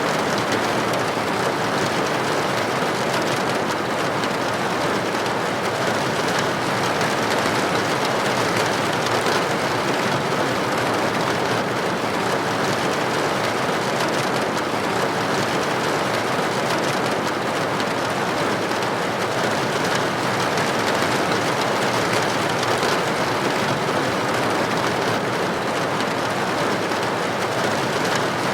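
Steady rain, with droplets hitting a building window: an even, unbroken hiss.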